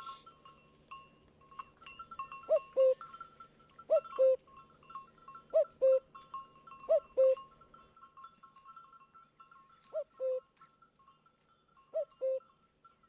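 A bird giving a repeated two-note call, six pairs of short notes about one and a half to two seconds apart, over steady higher-pitched chirping.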